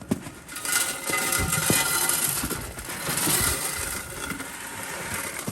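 Goat feed poured from a bucket into a feed trough: a steady rushing rattle with a faint ringing from the trough, starting about a second in and stopping abruptly near the end.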